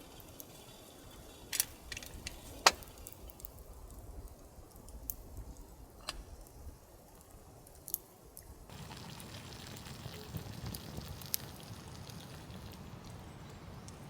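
Campfire crackling: a few scattered sharp pops over a low steady background, which changes abruptly about two-thirds of the way through.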